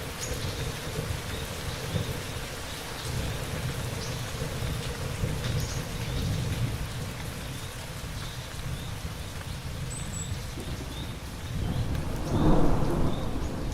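Steady rain with thunder rumbling low, which swells into a louder peal about twelve seconds in.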